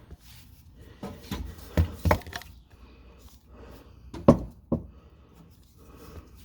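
Knocks and clunks from hands and tools working on a car's exhaust from underneath: a cluster of knocks from about one to two and a half seconds in, then two sharper ones a little after four seconds.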